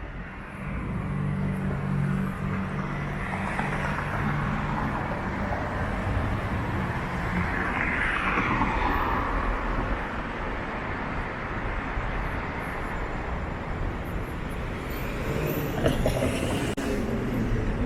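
City street traffic: a vehicle engine hums low and steady for the first several seconds, then a car passes with a rise and fall of tyre and engine noise about eight seconds in.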